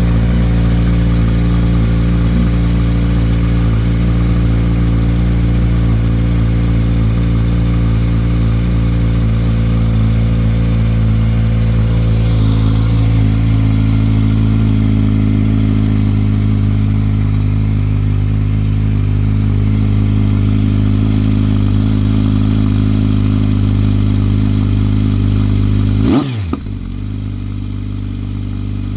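Kawasaki Z900 inline-four running through an SC-Project CR-T aftermarket exhaust, idling steadily, then a quick throttle blip near the end that sends the pitch sharply up and back down.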